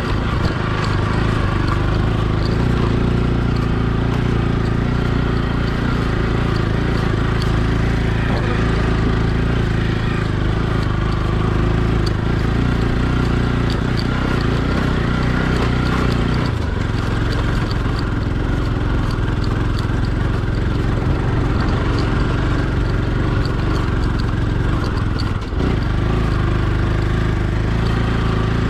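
Motorcycle engine running steadily under way, with two brief dips in the engine note, about halfway through and near the end.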